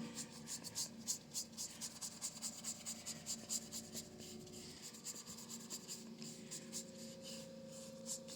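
Paintbrush stroking and dabbing acrylic paint onto a canvas: soft, scratchy brush strokes several times a second, thinning out after about five seconds.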